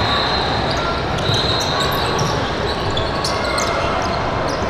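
Basketball bouncing on a gym floor during a game, with short high squeaks over steady background noise of the hall.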